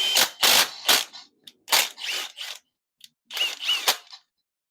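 An accessory bracket and tools being fitted onto an LS V8 engine block, giving a run of short, sharp metallic clicks and clanks. There are several in the first second or so, a few more around the middle and two near the end.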